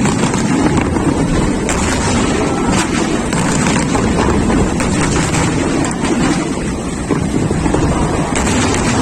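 Wind buffeting the microphone: a steady, loud rushing noise, with a few faint clicks.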